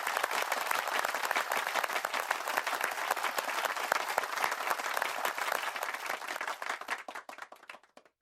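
Applause from many hands clapping, thinning out and fading away near the end.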